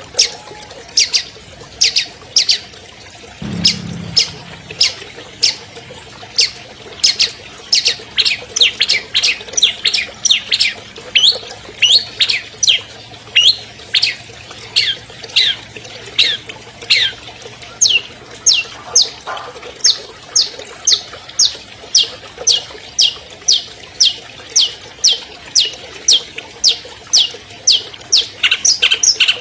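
Long-tailed shrike (cendet) calling: a long series of sharp notes, each sliding downward, about two a second and coming faster in the middle.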